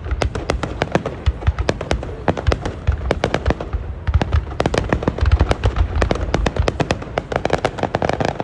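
Fireworks display in a rapid finale-style barrage: many sharp bangs and crackles, several each second, with deep booms underneath, fading out just after the end.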